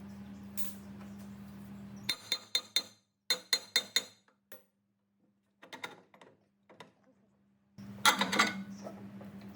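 Small metal parts clinking against each other as they are handled: a quick run of sharp clinks about two seconds in, a few faint taps, then a louder cluster of clinks near the end, over a low steady hum.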